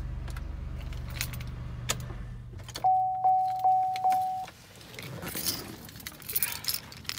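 A Chevrolet Impala's 60-degree V6 idling, heard from inside the cabin, shuts off about two and a half seconds in. The car's warning chime then sounds four times in an even beat, followed by keys jangling and the clicks and rustle of the driver's door being opened.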